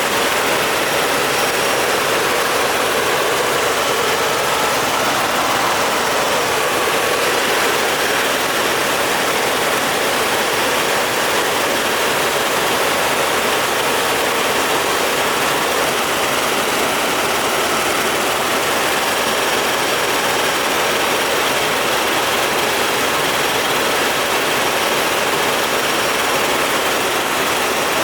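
Helicopter in flight: a steady, unbroken rush of turbine and rotor noise.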